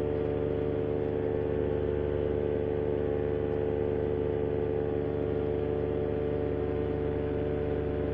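Vittorazi Moster 185 single-cylinder two-stroke paramotor engine and propeller running steadily at cruise in flight, an even drone with no change in pitch.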